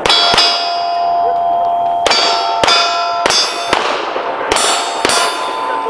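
Pistol shots on a steel-target stage, each hit answered by the bell-like ring of a struck steel plate. About nine shots come in quick pairs and singles with short pauses between them, the ringing overlapping from one hit to the next.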